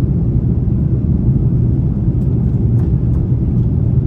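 Steady low rumble of engine and airflow noise inside an Airbus A330's cabin on final approach.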